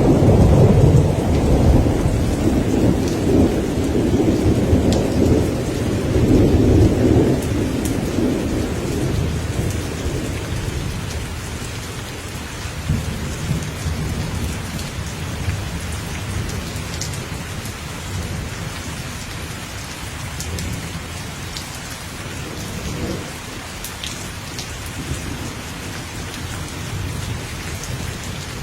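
Thunder rumbling over steady rain. The deep rumble is loudest in the first several seconds and dies away over the next few, leaving the rain falling with scattered drop ticks.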